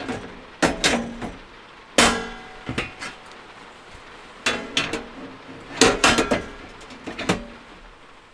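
Tableware clinking and knocking as dishes and utensils are handled and set down, in about six quick clusters, several with a short ringing after the knock.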